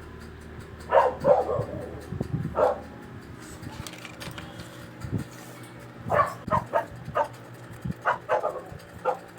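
A dog barking in short, separate barks that come in clusters, with a low steady hum underneath that stops about three seconds in.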